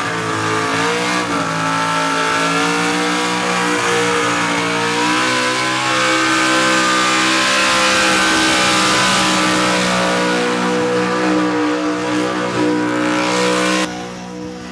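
Car engine held at high revs, its pitch wavering slightly, with a loud rushing hiss that swells in the middle. The sound cuts off abruptly near the end.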